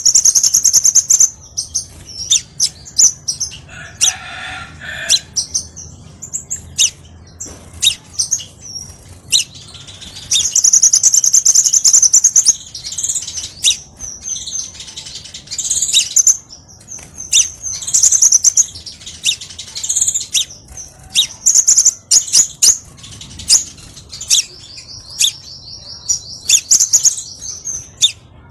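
Crimson sunbird singing: rapid high-pitched chirps and sharp ticks, broken by several longer high trills, the longest about a third of the way in and a buzzy one near the end.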